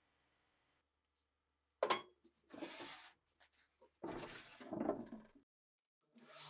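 Small metal parts clinking and being handled: a sharp click about two seconds in, then two short spells of rattling and scraping.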